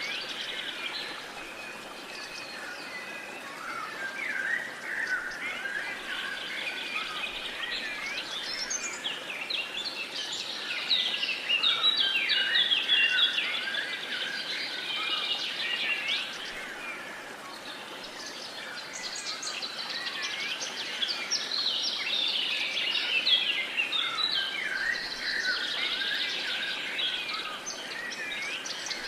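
Many birds chirping and singing at once in a dense, overlapping chorus, over a faint steady background hiss. The calling thins out briefly in the middle and grows busier again toward the end.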